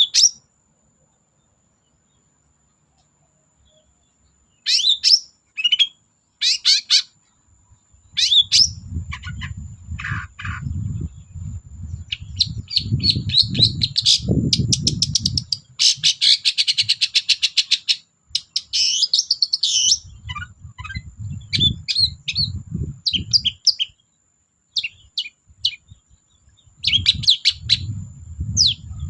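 Long-tailed shrike (cendet) singing loudly: sharp, separate harsh calls start about five seconds in and build to a fast, rattling chatter, with more short calls near the end. A low rumble sits under the busiest stretches of song.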